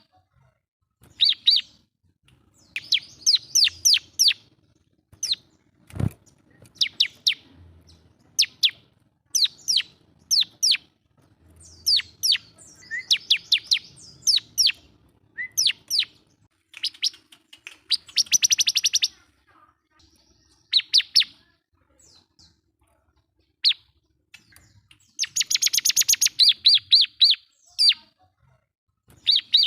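Bar-winged prinia (ciblek) in full song, calling to a rival: bursts of rapid, high chirping notes in repeated phrases with short pauses between them, and a longer dense buzzing trill about 18 s in and again about 25 s in. A single sharp knock sounds about 6 s in.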